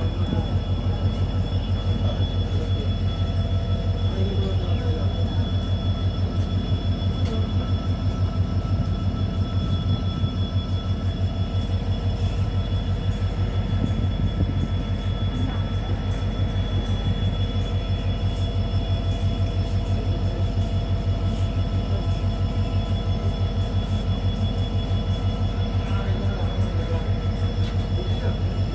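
Train standing at a station with its engine running: a steady, fast, low throb that does not change, with faint steady whines above it.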